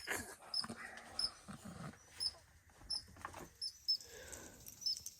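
Short, high chirps repeated evenly about every three-quarters of a second: the alarm calls of small rodents living beside the van, with faint sounds from a dog between them.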